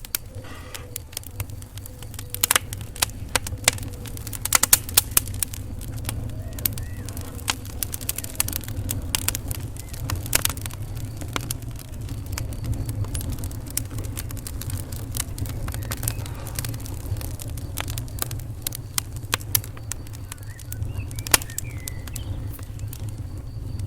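Wood fire in a fireplace crackling: irregular sharp pops and snaps, thickest a few seconds in and around ten seconds in, over a steady low rumble of the flames.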